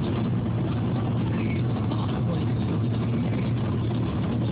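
Car driving along a road, heard from inside the cabin: a steady low hum of engine and tyre noise that holds even throughout.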